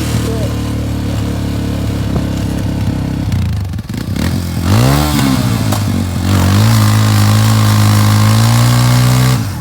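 A Yamaha's engine running under load as it pulls on a Polaris quad's engine to rip it out of the frame. The revs rise about five seconds in, hold steady and higher, then drop off just before the end.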